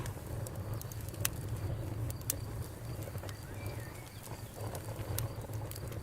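Campfire crackling, with irregular sharp pops and snaps from the burning wood over a steady low rumble.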